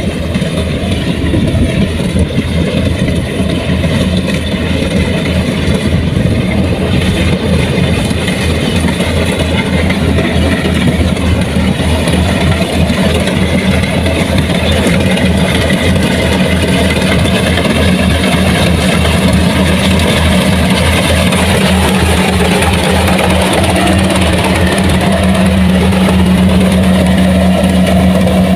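Engine of a Kubota farm machine running steadily and loudly, a continuous low hum that grows a little louder near the end.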